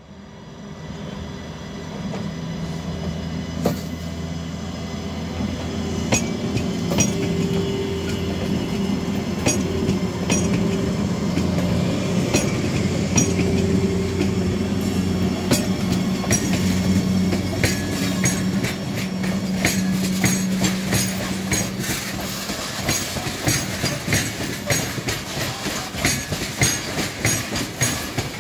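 WAG-12 electric freight locomotive passing close by, its steady electric hum growing loud over the first couple of seconds as it arrives. As it goes by, the hum fades and a string of open steel freight wagons takes over, with rapid, regular wheel clicks over the rail joints.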